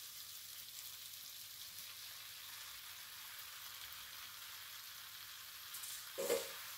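Chicken back and vegetables sizzling steadily in a frying pan, a faint even hiss, as boiled ackee is added on top. A short louder sound comes about six seconds in.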